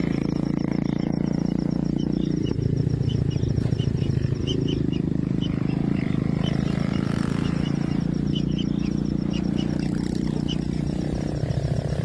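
Kingfisher nestlings in their nest burrow: a steady low churring drone with scattered short high chirps over it.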